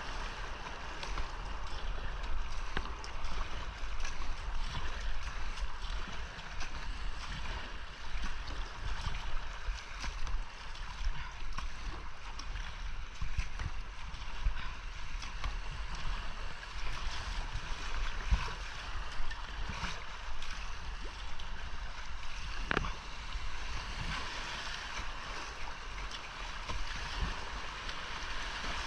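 Creek whitewater rushing and splashing around a kayak being paddled downstream, with one sharp knock about 23 seconds in.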